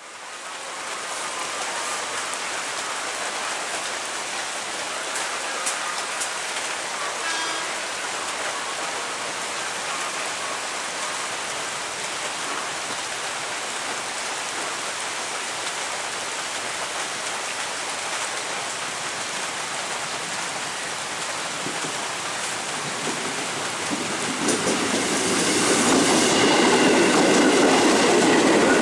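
Heavy rain falling steadily. About 24 seconds in, a KRL Commuter Line electric train approaches and grows louder, adding a rumble and steady high tones over the rain.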